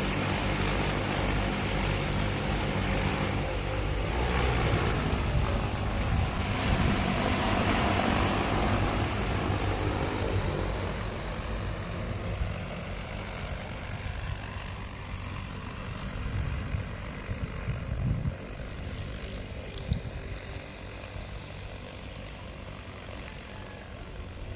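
Agricultural spraying drone's rotors whirring in flight, a steady low hum that fades after about ten seconds as the drone moves away.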